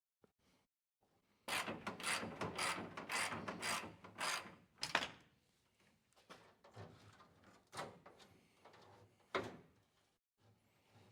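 A tool backing out hidden trim screws in a pickup's interior: a run of quick mechanical strokes, about two or three a second, for about three seconds. Then a few separate clicks and knocks follow, with a sharp knock near the end.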